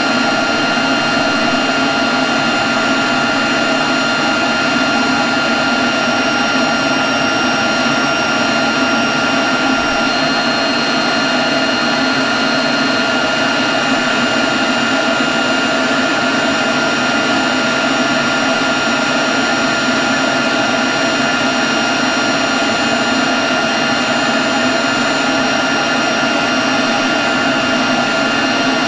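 Leaf blower running at a constant speed, a steady rush of air with a steady high whine over it.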